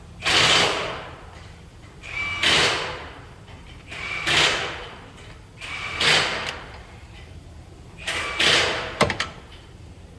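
Five short hissing bursts about two seconds apart, followed by a few quick clicks near the end.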